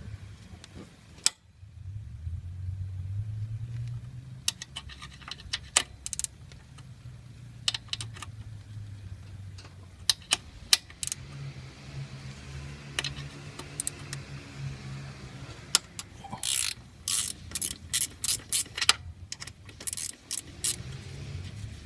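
Ratchet wrench with a 13 mm socket working on an alternator mounting bolt: scattered ratchet clicks and metal tool clinks, with a quicker run of clicks about three-quarters of the way through.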